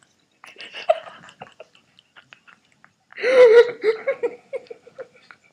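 People laughing and giggling, with a louder burst of pulsing laughter about three seconds in.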